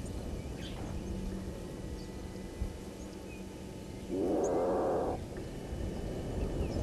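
A single harsh, rasping animal call lasting about a second, starting about four seconds in, over a steady low outdoor background.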